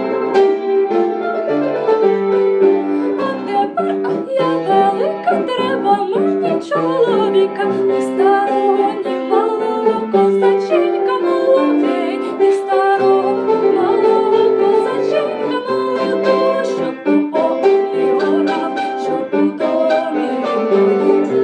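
Piano-led instrumental music, an arrangement of a Ukrainian folk song, with steady sustained chords.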